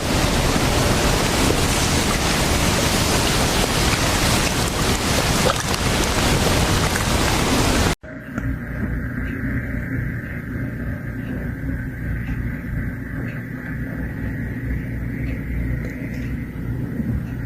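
Strong blizzard wind blowing across the microphone, a loud steady rushing noise. About eight seconds in it cuts abruptly to a quieter, lower rumble with a faint steady hum.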